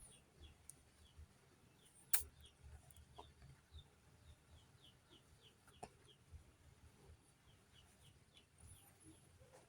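Faint bird chirps, short falling notes repeated two or three times a second, with one sharp click about two seconds in.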